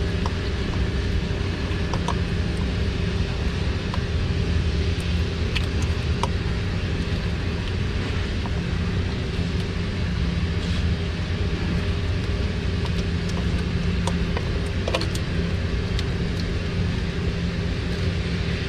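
A steady low machinery drone, like a motor or engine running, with a few faint light clicks and taps scattered through it.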